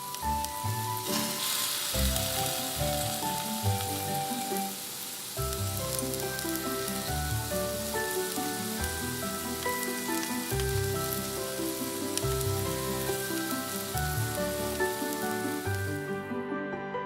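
Steady frying sizzle, as of food in a hot pan, starting about a second in and stopping shortly before the end, over background music with a melody.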